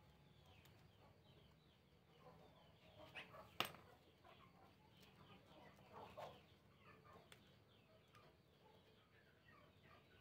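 Near silence with faint bird chirping in the background, many short falling chirps scattered throughout, and one sharp click about three and a half seconds in.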